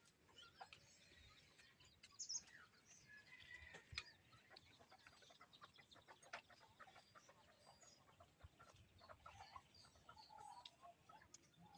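Mostly very quiet, with faint chicken clucking and occasional light clicks and knocks, the loudest about two and four seconds in.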